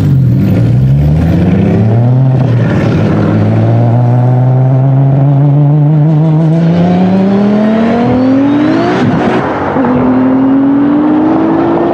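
Bugatti Chiron and a tuned Audi sedan launching from a standstill in a drag race, engines at full throttle with one long climb in pitch. About nine and a half seconds in the pitch drops suddenly at an upshift and starts climbing again.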